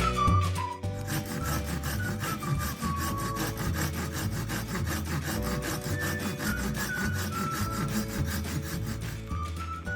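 A hand tool working wood with fast, repeated rubbing strokes, under soft background music.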